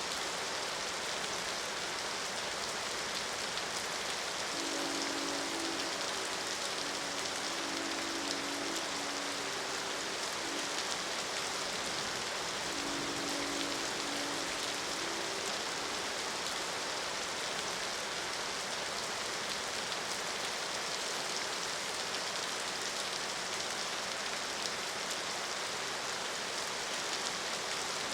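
Steady rain falling, with a distant train horn sounding a chord in a series of blasts, about four of them, between about five and fifteen seconds in.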